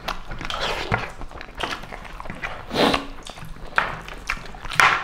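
Eating sounds close to a clip-on microphone: wet chewing and lip-smacking as people eat pork curry and rice by hand, coming as a string of short smacks, the loudest about three seconds in.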